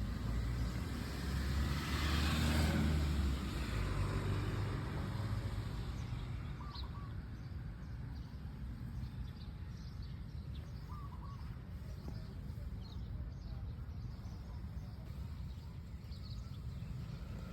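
Outdoor ambience: a steady low rumble with a vehicle passing about two seconds in, and a few faint bird chirps later on.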